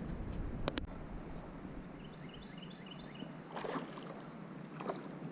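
Small fishing boat on a river: faint water and hull sounds with light handling noises, and one sharp click a little under a second in.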